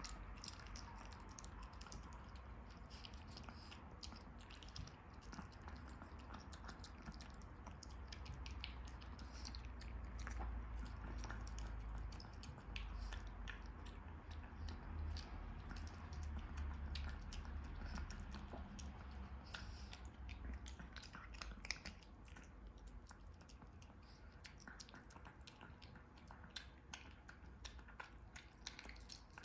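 Smooth-coat chihuahua chewing, with many small clicks from its mouth throughout.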